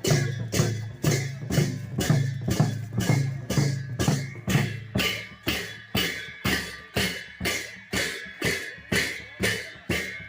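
Drums beating a steady, even rhythm of about two and a half strokes a second, each stroke ringing with a low tone and fading before the next.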